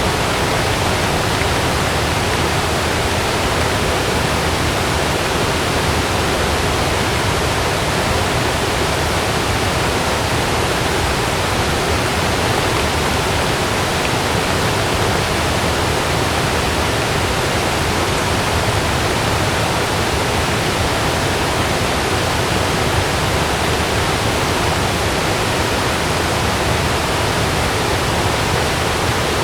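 Heavy rain falling steadily on a camping tent, an even, unbroken rush of noise.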